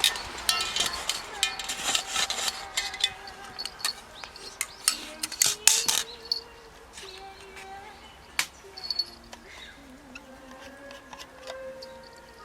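Sharp pops and crackles over a wood fire, thick in the first half and thinning out later, with a faint wavering whine underneath.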